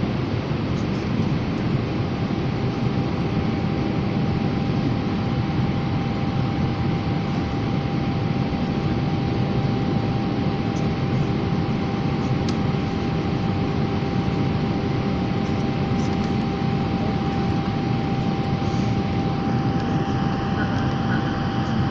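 Airplane in flight heard from inside the cabin: a steady engine-and-airflow roar, with a thin steady whine joining about two seconds in.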